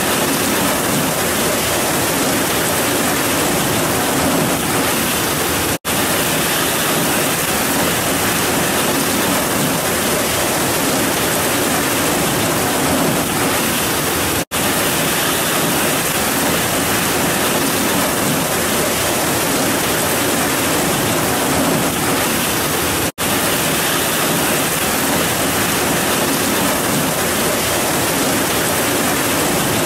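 Heavy rain pouring steadily, a dense even hiss. It cuts out for an instant three times, about every nine seconds.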